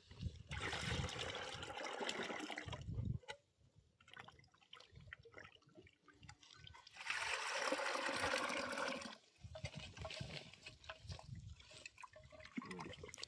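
Water running or trickling in two spells of about two to three seconds each, starting about half a second in and about seven seconds in.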